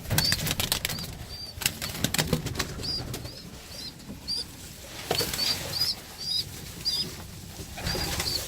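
Young pigeon (a squeaker) peeping over and over in short, high squeaks, with pigeon wings flapping and fluttering among them.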